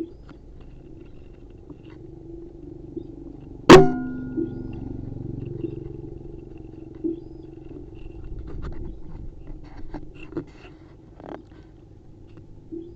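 A single sharp air-rifle shot about four seconds in, with a brief metallic ring after it.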